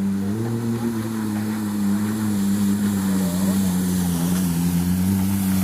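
Racing engine running at steady revs, its pitch held nearly level throughout.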